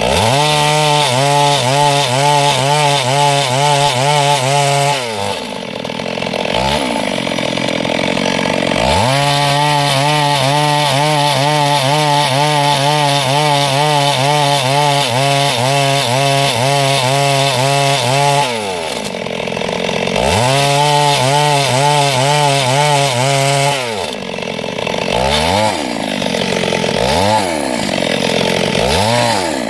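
Two-stroke chainsaw run up to full throttle and held there three times, cutting wood, dropping back toward idle in between. Near the end come a few short throttle blips.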